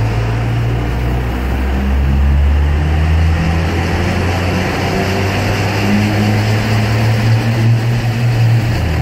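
Exhaust of a 2001 Dodge Ram 2500's Cummins diesel through a 4-inch AFE aftermarket system, with the engine running under a deep drone. The pitch shifts up about three seconds in and climbs slowly, then drops near the end.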